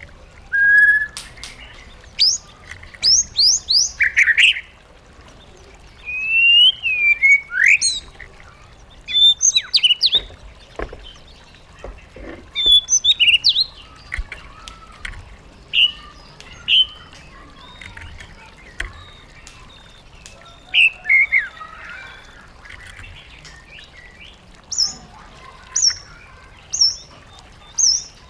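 White-rumped shama singing: varied phrases of clear whistles, slurred rising and falling notes and quick chattering runs, in bursts every second or two. Near the end comes a string of short high notes, about one a second.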